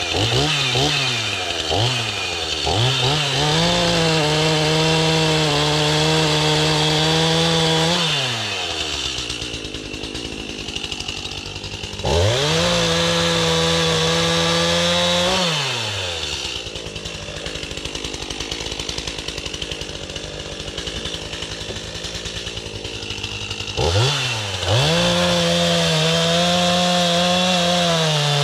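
Two-stroke gas chainsaw revved in a few quick blips, then run at full throttle three times as it cuts into wood, dropping back to idle between cuts.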